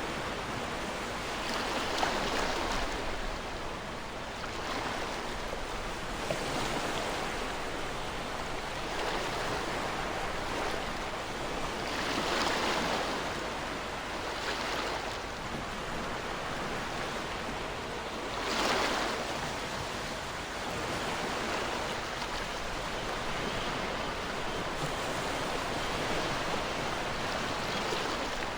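Ocean waves breaking on a shore in a continuous wash of surf, with swells every few seconds; the strongest comes about two-thirds of the way in.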